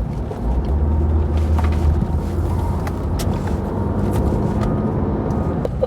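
Car engine and road noise heard from inside the moving car: a steady low rumble that grows louder about half a second in, with a few faint clicks.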